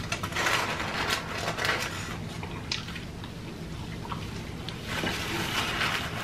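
Close-miked chewing and mouth sounds as French fries are eaten, in irregular short bursts, with rustling of the paper fry wrapper, over a steady low hum.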